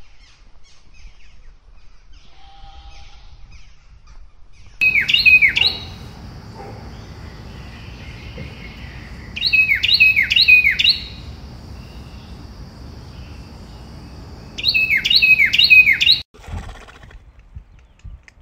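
A bird calling in three bursts about five seconds apart, each a quick run of three or four sharp notes that slide downward in pitch, over a faint steady background noise.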